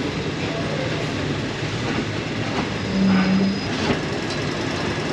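Passenger train rolling slowly, a steady rumble and rattle of the carriages, with a brief low steady tone about three seconds in.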